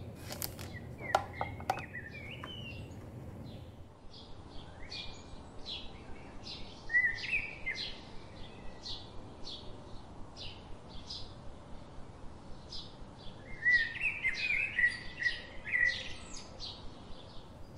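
Small birds chirping and twittering: a quick run of short, high chirps, with louder twittering phrases about seven seconds in and again near the end. A few sharp clicks come in the first two seconds.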